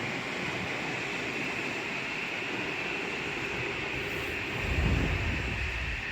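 Metro-North train rolling through the station: a steady rolling noise with a high, even hiss. About two-thirds of the way in, gusty wind begins to buffet the microphone with a low rumble.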